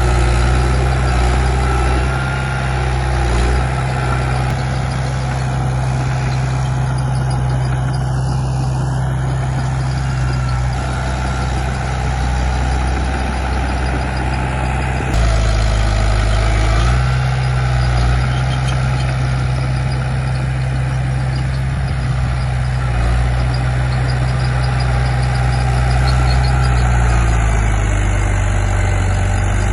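Diesel engine of a Komatsu D31P crawler bulldozer running under working load, its note stepping up and down as the load and throttle change, with an abrupt shift about halfway through.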